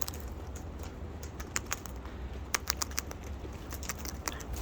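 Birds' beaks pecking at food: quick, irregular sharp taps and clicks, several a second.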